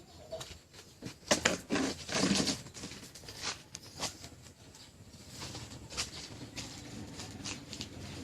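A series of irregular clicks and knocks, the loudest cluster about one to two and a half seconds in, with sparser clicks after.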